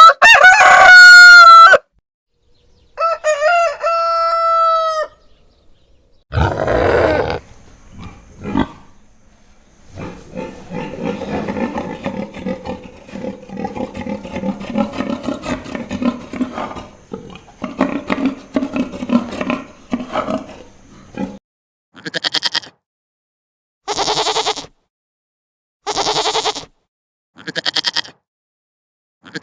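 A series of separate animal calls. It opens with a rooster crowing, followed by a second pitched call. Then come a short rough call, a long rough stretch of calling, and about five short calls two seconds apart near the end.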